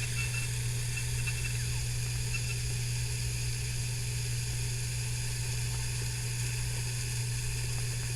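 Steady low hum with a constant hiss, and a few faint high ticks in the first couple of seconds.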